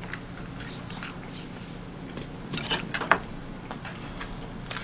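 Close-up eating sounds: soft chewing and mouth clicks, a few of them louder about two and a half to three seconds in, over a steady low hum.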